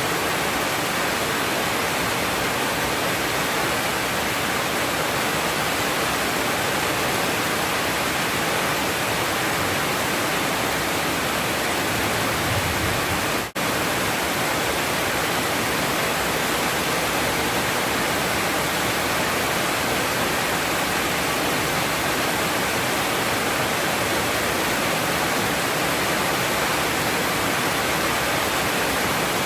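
Heavy rain pouring down in a steady, loud hiss during a storm, broken for an instant about thirteen seconds in.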